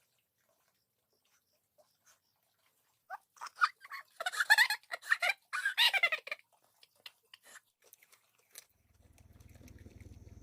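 Poultry calling loudly in a burst of pitch-bending cries for about three seconds, starting some three seconds in. Scattered small clicks follow, and a low steady rumble starts near the end.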